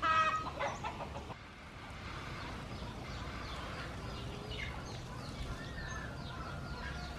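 Chickens calling: a loud call lasting about a second at the start, then fainter, short chirping calls.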